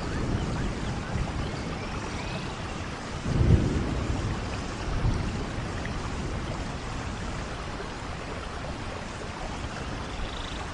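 Steady rainforest rain falling, with low rumbles of thunder swelling up, the loudest about three and a half seconds in and a smaller one soon after.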